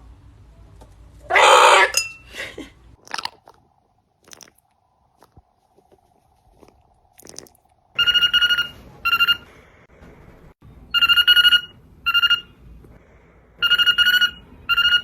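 Telephone-style ringing: a steady pitched ring in long-then-short pairs, repeated three times about every three seconds, starting about halfway through. Before it, about a second and a half in, comes one harsh, noisy screech.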